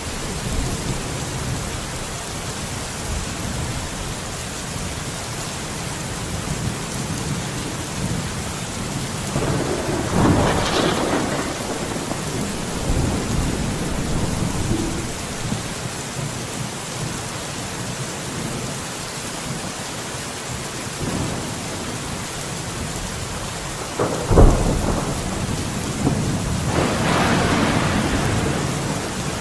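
Steady rain with thunder. A rumble swells about a third of the way in, and a sharp, loud thunderclap about two-thirds through is followed by a longer rolling rumble near the end.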